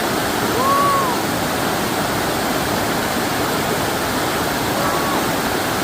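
Stream swelled by monsoon rain, a steady rush of water. A faint short tone that rises and falls cuts through it about half a second in and again near five seconds.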